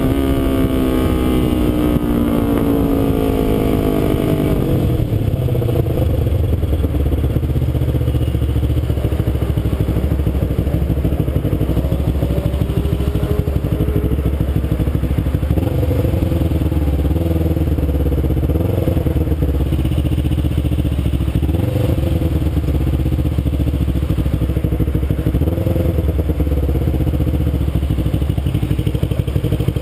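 Kawasaki Ninja 250 parallel-twin motorcycle engine under way: the revs fall over the first few seconds, then the engine runs at a steady speed for the rest of the time.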